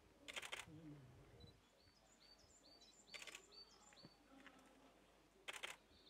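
Faint, high, chirping songbird calls in the background, with three short bursts of rustling noise: near the start, in the middle and near the end.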